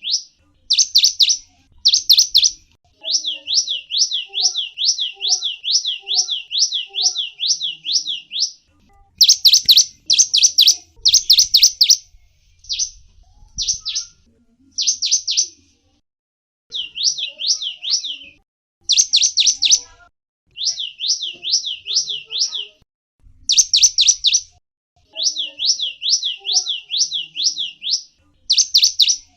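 A small songbird, the one called gelatik wingko in Indonesian, calls in fast runs of high, downward-sweeping chirps at about five a second. The runs last a second or several and are broken by short pauses.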